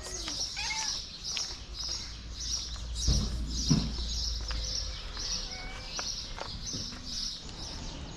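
Small birds chirping outdoors, a high chirp repeating steadily about two or three times a second, with a few short call notes among it. A brief low rumble comes about three seconds in.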